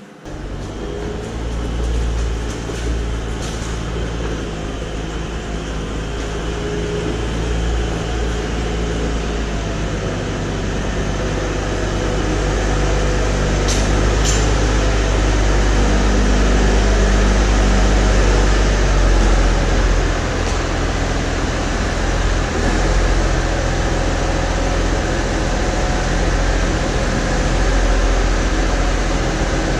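200-horsepower diesel tractor engine starting up and then running steadily with a low drone, growing slightly louder toward the middle.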